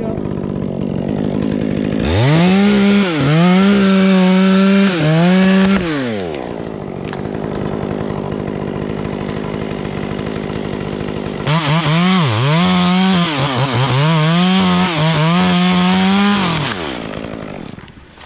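Stihl chainsaw idling, then run at full throttle twice, for about four and five seconds, its pitch dipping again and again as the chain bites into cottonwood. It drops back to idle between the two cuts and falls away near the end.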